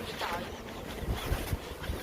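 Low rumbling background noise with a brief voice near the start.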